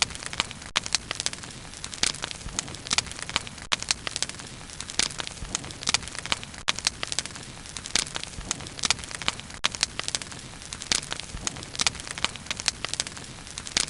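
Bonfire burning, wood crackling and popping in frequent sharp clicks over a steady hiss of flame.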